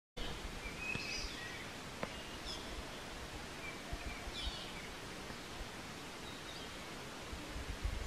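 Forest birds calling: several short chirped and sweeping calls in the first five seconds, a few fainter ones after, over steady background noise. Two sharp clicks come about one and two seconds in.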